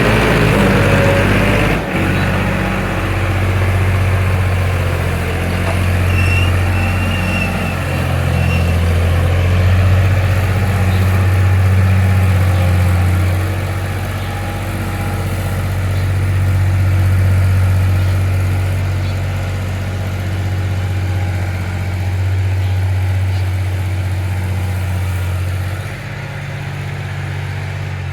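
Tractor's diesel engine running steadily with a deep, even drone, easing off slightly in level near the end.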